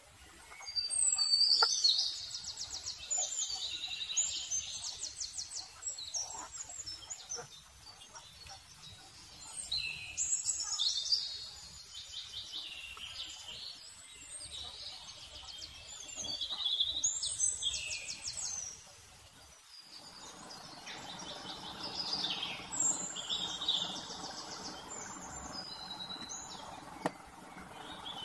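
Small birds chirping and trilling in repeated high-pitched bursts of a second or two each. A steady hiss joins about twenty seconds in.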